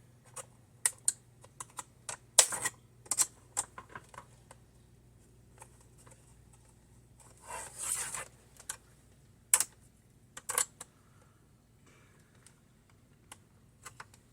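Sharp, irregular plastic clicks and snaps as a flathead screwdriver pries the clips of a Dell Inspiron 8600's plastic screen bezel loose, with a longer scrape about eight seconds in.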